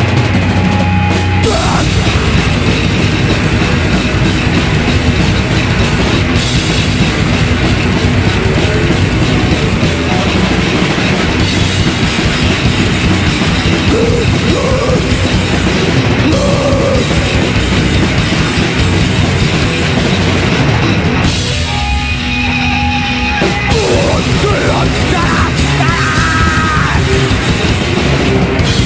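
Live heavy metal band playing loud and continuously: two distorted electric guitars, bass guitar and a drum kit. The sound thins out briefly about three-quarters of the way through.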